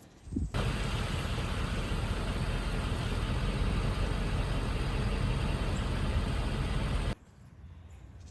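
A motor vehicle running: a steady, loud low rumble with hiss above it. It starts abruptly about half a second in and cuts off sharply near the end.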